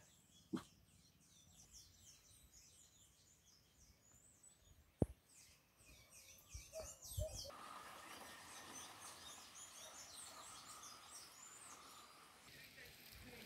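Faint birdsong from several birds, many short high chirps, with a few soft knocks and one sharp tap about five seconds in. From about seven seconds a steady hiss rises beneath the chirps.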